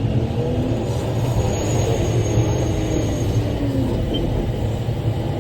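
Large rock truck's diesel engine running steadily, heard from inside the cab: a continuous low drone with shifting mechanical tones above it.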